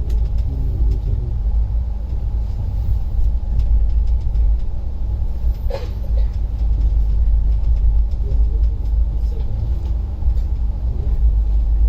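Auto-rickshaw on the move: a steady low engine drone and road rumble, with a brief higher-pitched sound about six seconds in.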